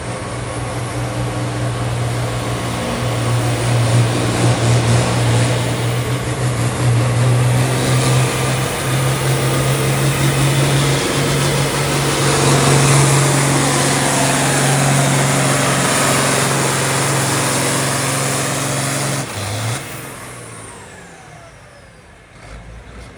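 Farm tractor engine running at full throttle under heavy load while pulling the weight-transfer sled, a loud, steady deep drone. Near the end the throttle comes off and the sound drops sharply and fades away.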